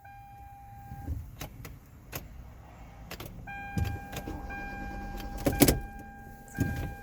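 A car's electronic warning tone sounding steadily, with a few sharp clicks and dull knocks from the controls as a dead car is tried again. The tone stops about a second in and comes back halfway through.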